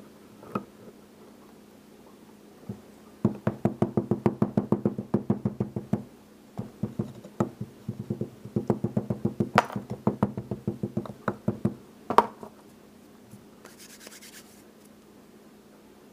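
Rapid knocking on a sand-casting mold flask, about six or seven knocks a second in two long runs, ending in one louder knock: casting sand being pounded and packed into the mold.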